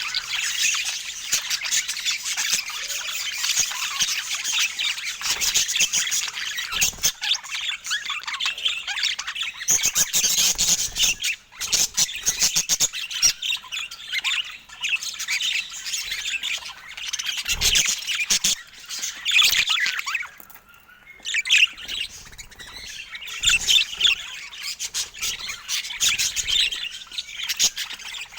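Budgerigar chatter: continuous warbling and chirping mixed with short squawks and clicks, with a brief lull about two-thirds of the way through.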